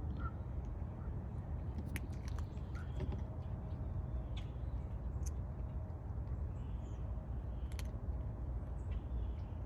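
Feral cats crunching dry food: scattered, irregular sharp crunches and clicks over a steady low rumble.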